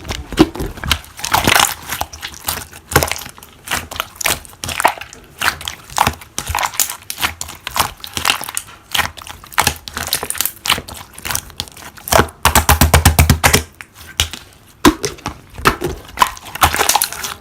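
Slime being worked by hand, making irregular crackling and popping clicks, with a quick dense run of clicks for about a second and a half near two-thirds of the way through.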